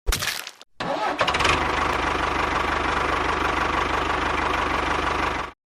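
A small engine started: a brief burst of cranking noise, then it catches about a second in and runs steadily with a fast, even pulse. It cuts off suddenly near the end.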